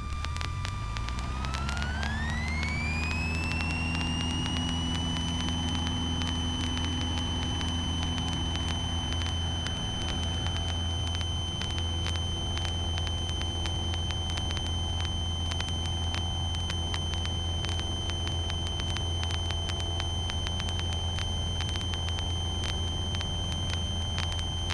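Cessna 150's Continental O-200 four-cylinder engine throttled up to full power for the takeoff roll of a touch-and-go, heard in the cockpit. A high whine climbs in pitch about a second in as the engine speeds up, then holds steady over a constant low drone.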